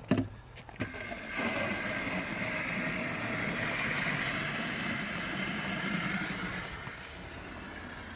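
A sharp knock, then a steady mechanical drone for about five seconds that fades near the end.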